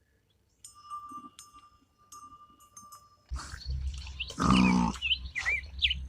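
A farm animal calling loudly, the longest call about four and a half seconds in, mixed with short high chirps near the end. It follows a steadier high-pitched sound broken by clicks.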